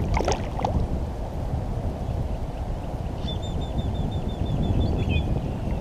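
Steady low rumble of wind and water on the microphone, with a bird about three seconds in giving a quick run of about a dozen short, high, evenly spaced chirps that lasts about two seconds and ends on one longer note.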